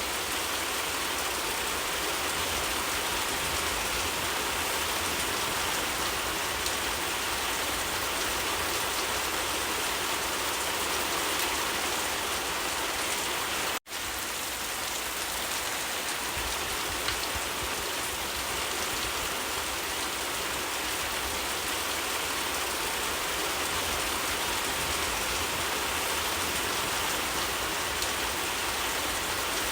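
Steady rain falling, an even hiss of many drops on surfaces. About halfway through it cuts out for a split second and comes straight back, like a splice in the recording.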